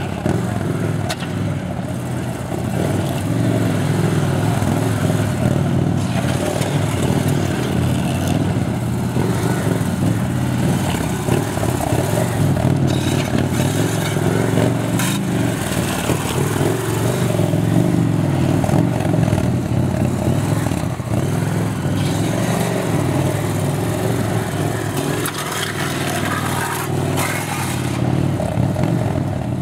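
Victory Commander I police motorcycle's V-twin engine running through a cone course, its pitch rising and falling as the throttle is worked.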